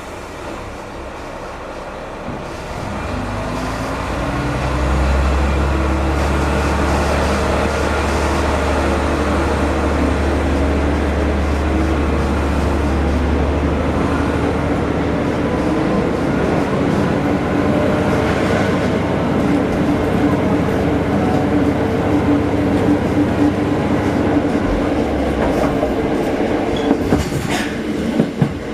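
Diesel railcar engine heard from inside the car, rising in pitch as the train pulls away and gathers speed, then running steadily. A few sharp clicks of wheels over rail joints come near the end.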